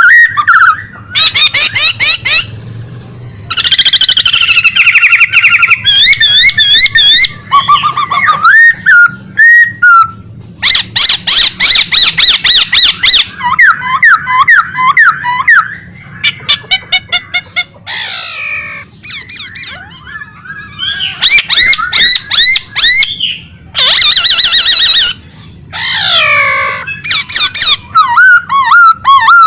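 Songbird singing loudly and almost without pause, in a rapid, varied stream of whistled slurs, fast trills and chattering phrases broken only by brief gaps: the bird is 'gacor', in full song.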